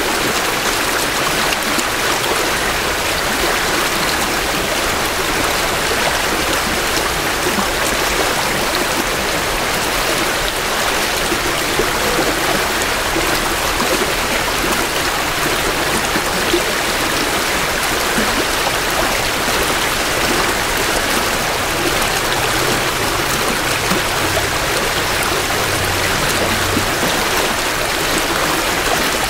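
Creek water flowing steadily over rocks, a continuous rushing and babbling of a small stream.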